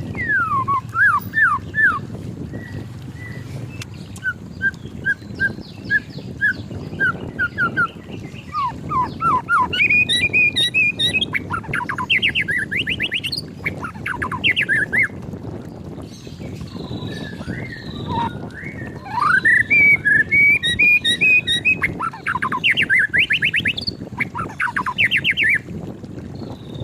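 White-rumped shama singing in varied phrases of quick down-slurred notes, fast trills and clear whistles. The phrases come in bursts with short pauses between them, over a steady low background rumble.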